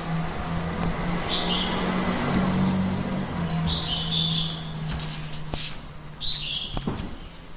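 A bird giving a short high chirping call three times, about every two and a half seconds, over a steady low hum, with a few faint knocks in the second half.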